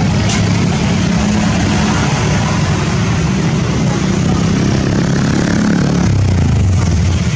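Boeing 777-300ER's GE90 jet engines running, a steady loud rush of noise over a low drone; the drone drops in pitch about six seconds in.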